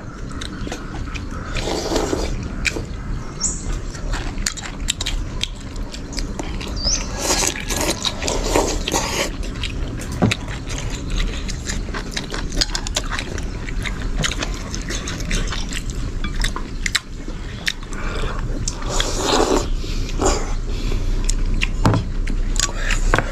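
People eating noodle soup, slurping from the bowl a few times, with many small clicks of chopsticks against bowls.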